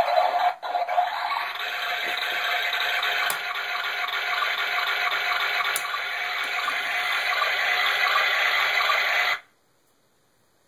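Circuit-bent toy washing machine's sound chip playing a steady, water-like rushing noise that cuts off suddenly about nine seconds in.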